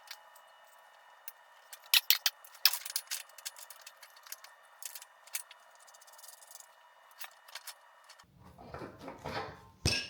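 Scattered sharp clicks and clinks of small hard parts or hand tools being handled, thickest about two to three seconds in, with a denser rattle of handling near the end.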